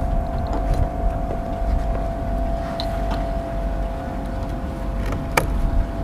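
Steady low machine hum with a constant tone, and a sharp click about five seconds in.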